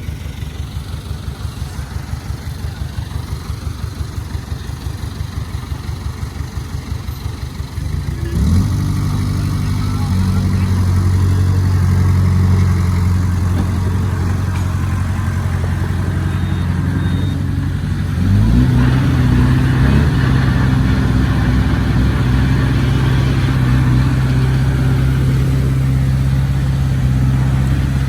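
Heavy diesel engine idling with an even low pulse, then revving up about eight seconds in and running hard at high speed. It drops back briefly at about eighteen seconds, then revs up again and holds steady.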